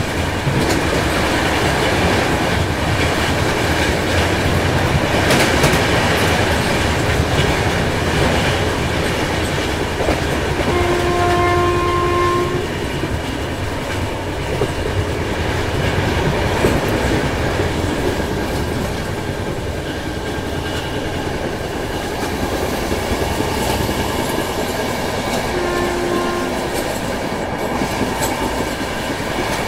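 The 22210 Duronto Express running at speed: a steady rumble of wheels on rail with clickety-clack. The locomotive horn sounds twice, a blast of about two seconds about eleven seconds in and a shorter one about 26 seconds in.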